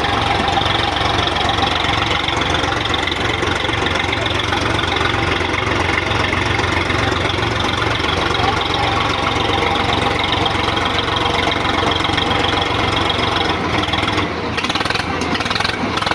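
Diesel tractor engine running steadily and loud, dipping briefly about fourteen seconds in.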